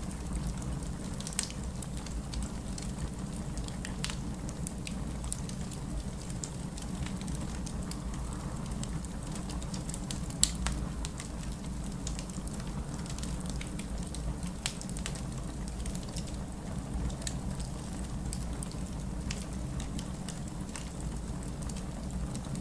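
Wood fire in a fireplace crackling, with scattered irregular pops and one sharper pop about halfway, over a steady low rumble.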